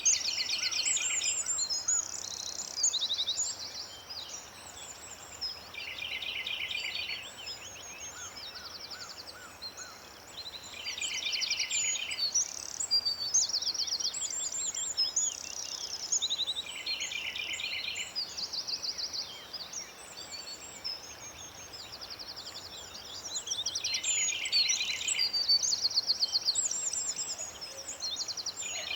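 Several songbirds singing together, a busy mix of high chirps and whistled phrases, with one bird repeating a rapid, buzzy trill about every five seconds.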